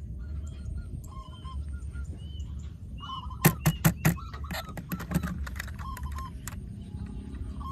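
Birds giving short, repeated honking calls over a steady low rumble, with a quick run of sharp clicks about three and a half seconds in.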